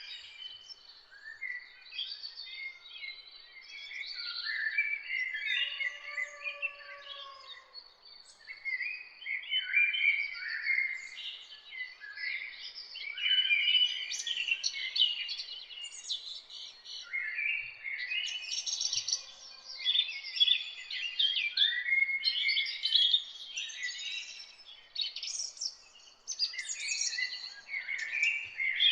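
Several songbirds singing and chirping at once, with quick overlapping chirps and trilled phrases throughout. A thin, steady high tone runs under the first half, and one lower arched whistle comes about six seconds in.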